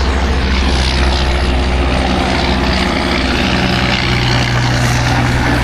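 Heavy diesel dump truck's engine running steadily with a deep drone, its pitch stepping slightly higher about three and a half seconds in.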